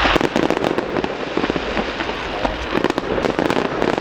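Fireworks crackling: dense clusters of rapid sharp pops and small bangs from bursting shells, thickest in the first second and again near the end.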